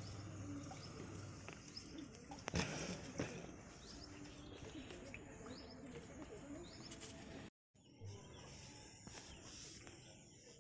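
Small birds chirping, many short rising chirps repeated over a faint steady outdoor background. There is one brief knock about two and a half seconds in, and the sound cuts out for a moment about seven and a half seconds in.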